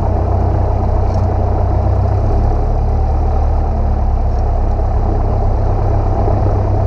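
Single-engine light airplane's piston engine and propeller droning steadily in the cockpit in flight, with a slight shift in the low hum about two seconds in.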